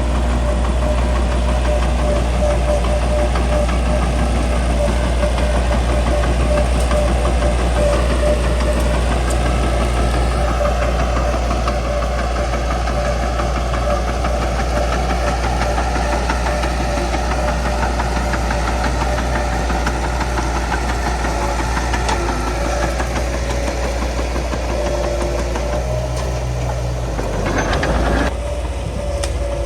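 Bulldozer's diesel engine running steadily at working speed, with a brief burst of noise about two seconds before the end.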